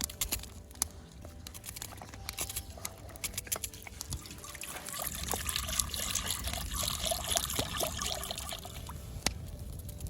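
Water poured in a stream into a cooking pot for about four seconds, starting midway, after a few light clicks and knocks.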